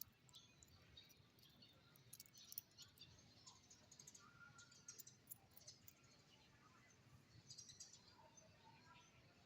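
Faint puppy squeaks and light scattered ticks, all very quiet, with a short thin whine about four seconds in.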